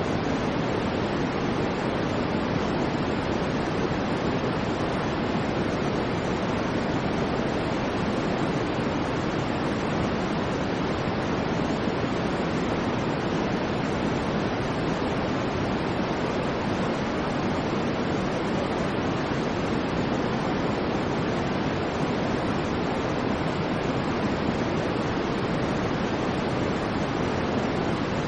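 Steady white noise: a constant, unchanging rushing hiss, weighted toward the low-middle range, with no swells or breaks.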